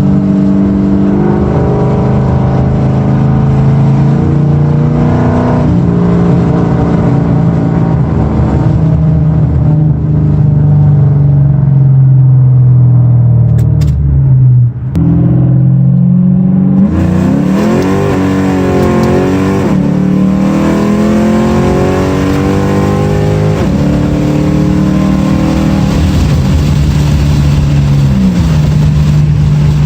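2006 Mustang GT's 4.6-litre V8 running loud through MBRP muffler deletes and an off-road X-pipe. The exhaust note rises and falls with the revs as the car is driven, with quick swings in pitch a little past halfway.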